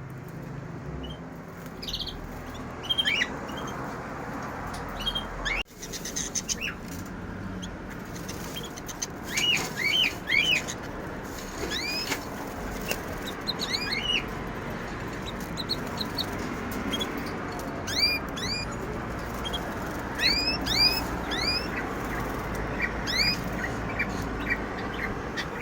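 Small caged birds chirping: many short, sharp chirps from several birds, coming in irregular clusters, over a steady background noise.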